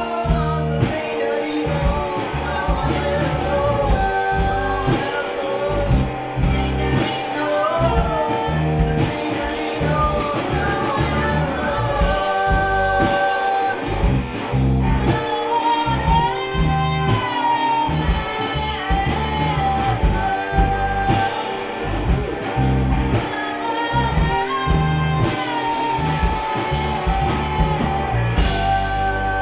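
Live gypsy rock band playing a song with a lead singer: steady drum beat, bass, guitar and accordion under the vocal.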